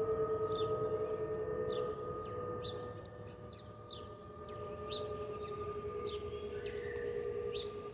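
Airbus A320's fuel over-pressure protector vents whistling as air flows over the wing: a steady howl of several held tones, the whistle typical of the A320 family. Birds chirp now and then.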